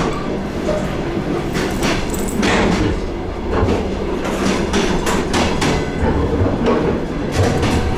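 DR1A diesel railcar running along the line: wheels clacking over rail joints in clusters every second or two, over a steady low running rumble.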